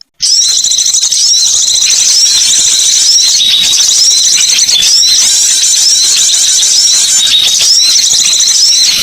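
Recorded bird lure call: a dense, continuous high-pitched chatter of songbird calls, with short upswept notes repeating about every half second. It begins after a split-second break.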